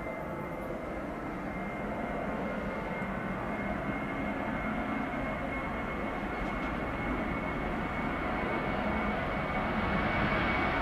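Boeing 737-800's CFM56-7B jet engines at takeoff power, a steady rushing noise with a thin high whine, growing slowly louder.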